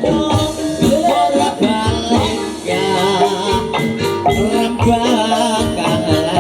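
Live jaranan dangdut music: drum strokes keep a steady beat under a wavering melody.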